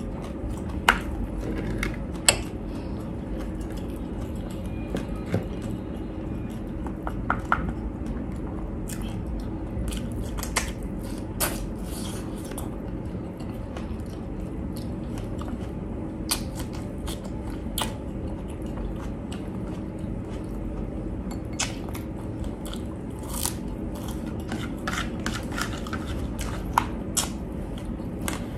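A person chewing and biting into crispy deep-fried pork, with scattered sharp crunches over a steady low hum.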